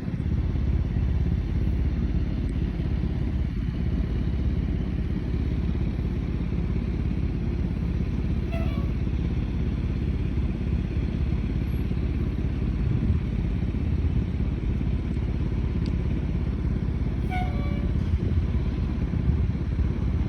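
Fire engine's diesel engine running, a steady low rumble with no siren, and two faint brief tones about a third of the way in and near the end.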